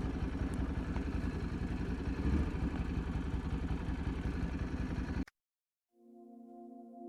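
Ducati Multistrada motorcycle engine running with a steady low pulsing rumble, cut off suddenly about five seconds in. After a moment of silence, soft sustained music fades in.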